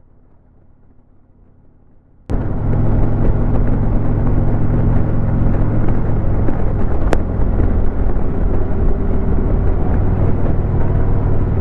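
Harley-Davidson Road King's V-twin engine running steadily under way, with road and wind noise, cutting in suddenly about two seconds in after a faint, muffled low rumble. A single sharp click about seven seconds in.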